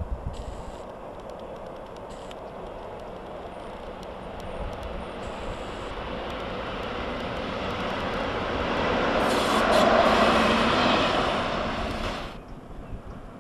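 Freight train rolling by: a steady rumble of wheels on rails that builds up, is loudest about ten seconds in, and stops abruptly near the end.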